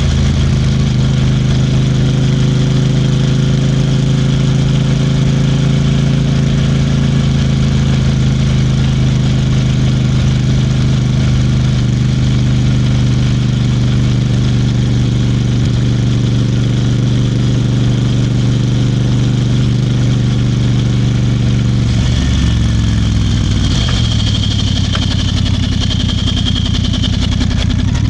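Royal Enfield Bear 650's parallel-twin engine running on the move, holding steady revs for about twenty seconds. Then the revs fall away as the bike slows, and the engine runs lower before picking up again at the very end.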